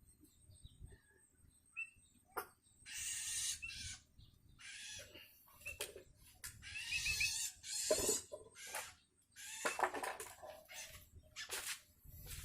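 Long-tailed shrike (cendet) chick giving harsh, raspy begging calls in repeated bursts, with a few short high chirps between them: a hungry fledgling calling for its parent to feed it.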